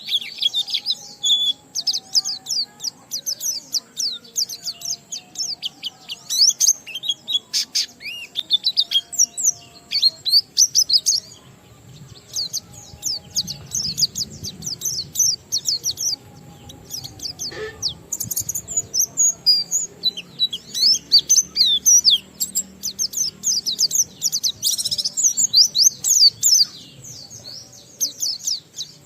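White-eye (pleci) singing a long, rapid twittering song of high chirps in fast runs, broken by short pauses about 12 and 16 seconds in.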